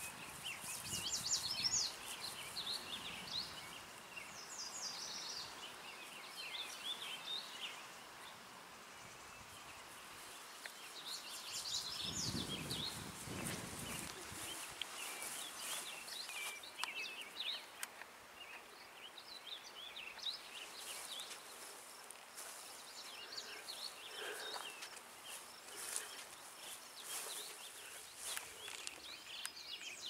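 Songbirds chirping and singing in overlapping short phrases over a faint steady outdoor hush, with a brief low rumble near the middle.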